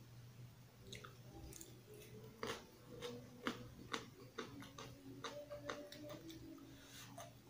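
Close-miked eating: chewing and wet mouth sounds with many sharp clicks and taps, the loudest from about two and a half seconds in, over a faint steady low hum.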